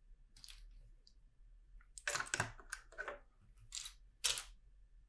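Plastic LEGO pieces being handled at the build table: a series of short clicks and rattles, the loudest about two seconds in and again past four seconds.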